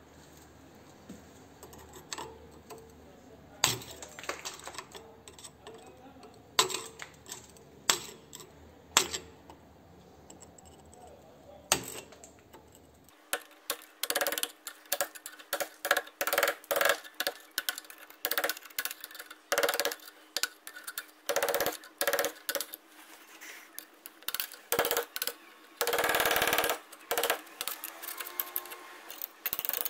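Hand-tool work on a metal axe head: scattered single clicks and knocks at first, then a fast run of short scraping or tapping strokes, with one longer scrape of about a second near the end.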